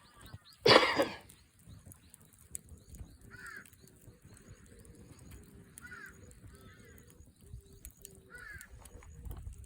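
Birds calling outdoors: one loud, harsh call just under a second in, then a short chirping call repeated every two to three seconds, with a faint steady run of short low beeps underneath.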